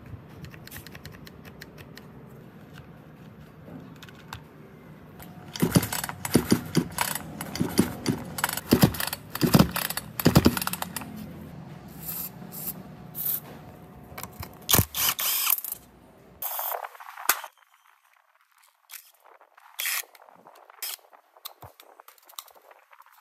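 Clicks, knocks and rattles of a rusty old chainsaw being handled on a metal workbench, then several short hisses of an aerosol spray can with a straw aimed at the rusted handle screws, and a few scattered clicks near the end.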